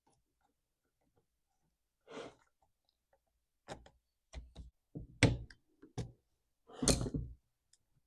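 Irregular knocks and clicks of chainsaw parts being handled and pressed back into place on a workbench, about eight in all, the loudest near the middle and towards the end.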